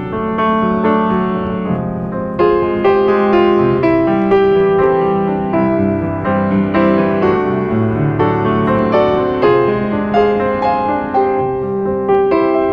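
Background piano music: a slow piece of sustained chords and melody notes.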